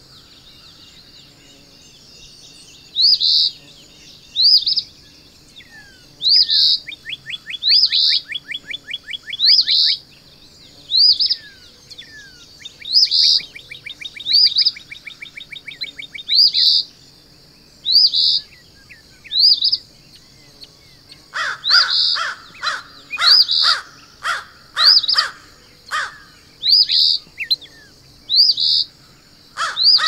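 Songbirds calling: one bird repeats short rising whistled notes, with a quick trill twice, over a steady high hiss. About two-thirds of the way through, a rapid series of harsh calls joins in.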